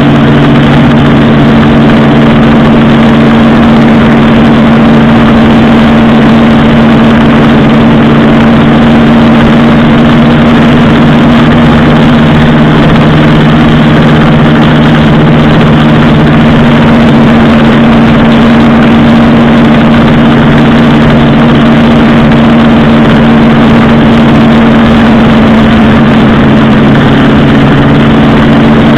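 Motorcycle engine running loud and steady at an even speed, with a constant rush of wind noise, as heard from a bike on the road.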